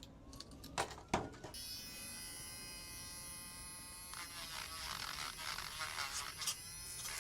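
Miniature cordless rotary tool switched on with a click and spinning up, then running steadily at its low speed setting with a thin electric whine. The pitch wavers unevenly in the second half.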